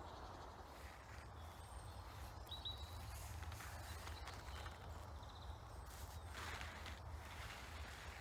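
Quiet woodland ambience: a steady low wind rumble, a few short bird chirps, and scattered soft rustles.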